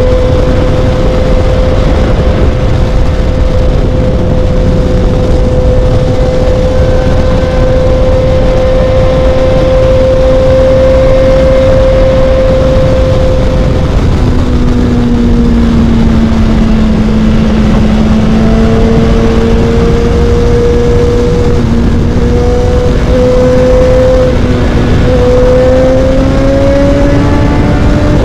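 BMW S1000XR's inline-four engine running at a steady cruise under heavy wind rush on the microphone. About halfway through, the engine note drops in pitch, then slowly climbs again.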